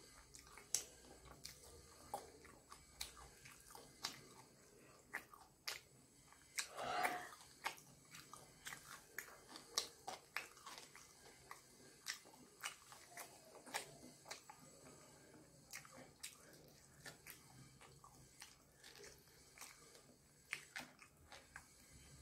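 Close-up chewing and biting of fried chicken: soft, scattered crunches and wet mouth clicks, with one louder sound about seven seconds in.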